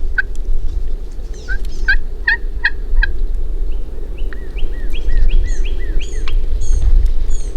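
Wild turkey calling: a few short notes, then a run of about ten evenly spaced notes, roughly two or three a second, over wind rumble on the microphone.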